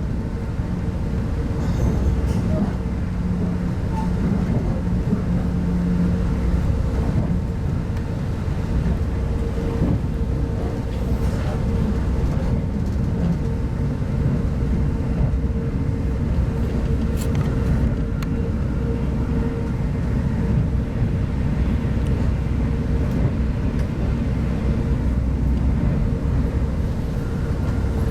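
Cabin noise inside a 25T-series passenger coach running along the line: a steady low rumble of wheels on track with a constant hum. A lower tone joins in for the first six seconds or so.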